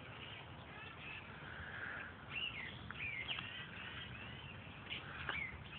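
Wild songbirds singing and chirping in the surrounding trees: a mix of short chirps and slurred whistled notes, with a few clearer whistles a couple of seconds in, over a faint low background rumble.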